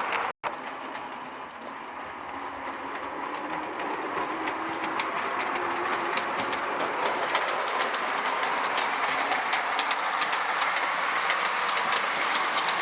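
O-scale model Santa Fe Mikado steam locomotive running with a train of streamlined passenger cars: a steady running noise with wheels clicking rapidly over the rail joints. It grows slowly louder from about two seconds in.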